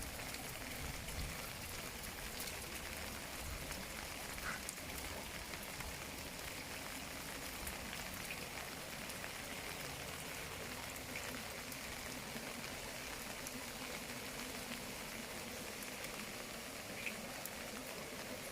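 Steady rain falling, with a few sharper drop taps standing out now and then.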